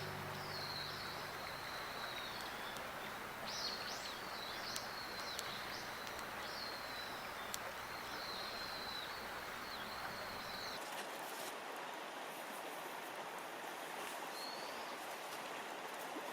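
Outdoor ambience: a steady background hiss, with a bird singing a high, wavering, warbling song for about the first ten seconds and one short note again near the end. A few faint clicks sound now and then.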